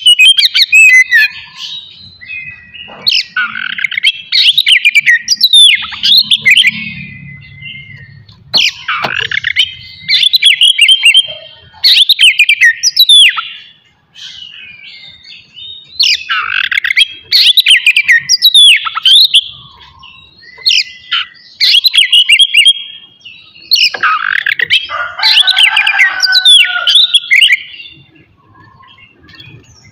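Oriental magpie-robin (kacer) singing loudly: repeated phrases of rapid, varied whistles and sharp trills, each a second or two long with short pauses between them.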